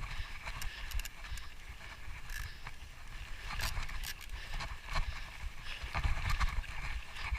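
Mountain bike rattling and clicking over a rough, rocky trail, with irregular sharp knocks and a low, constant rumble of wind on the microphone.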